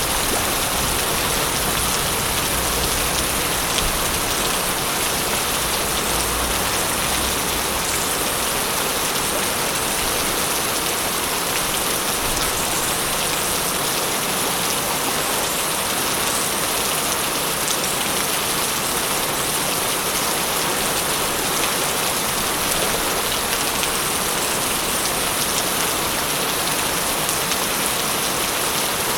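Steady, heavy rainfall falling on surfaces. A low rumble sits underneath for the first several seconds, then fades.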